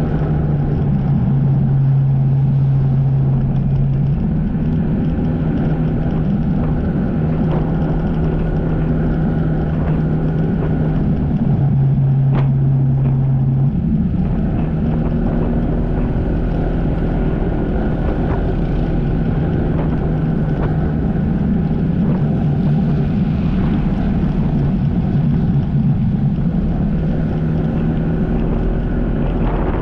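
Jet ski engine running under way, its pitch shifting up and down several times as the throttle changes, with some wind on the microphone.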